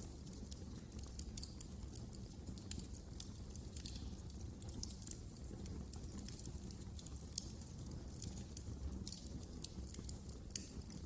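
Wood fire burning in a fireplace, crackling with many small irregular snaps over a low steady rumble of the flames.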